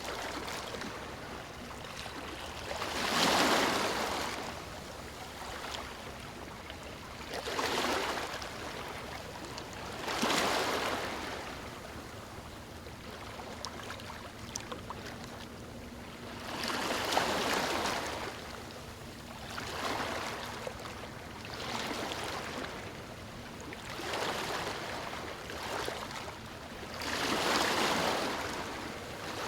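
Small waves breaking onto a stony shore, one swell of rushing water every few seconds, with a steady wash of water between them.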